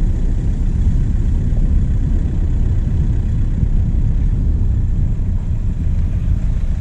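Diesel engine running with a steady low rumble, heard close up through the vehicle's bonnet.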